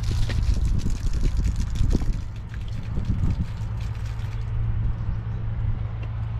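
Water being poured out of a plastic water bottle and splashing onto the ground for about four seconds, then tapering off, over a steady low hum.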